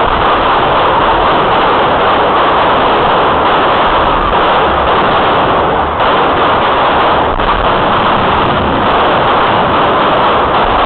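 Fireworks going off in a dense, unbroken barrage of crackling and bangs, loud throughout.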